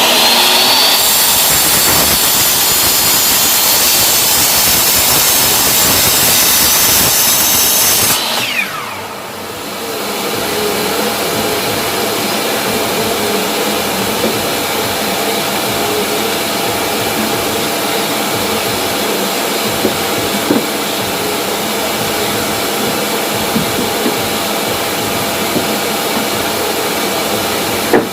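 Mitre saw motor running at full speed with a high whine, over the steady whoosh of a vacuum dust collector. About eight seconds in, the saw is switched off and its whine winds down, while the dust collector keeps running steadily.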